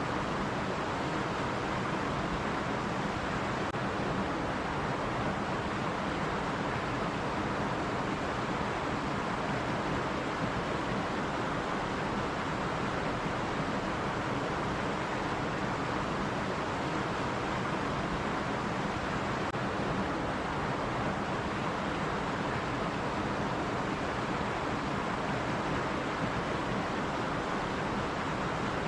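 Stream water running steadily over rocks, an even rushing noise with no pauses or changes.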